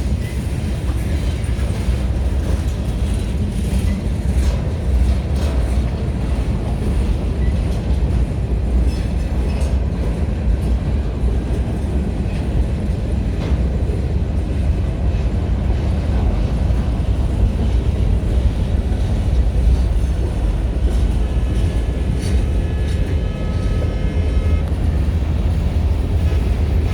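Freight train rolling by: a steady low rumble of wheels and cars, with scattered clicks over the rail joints.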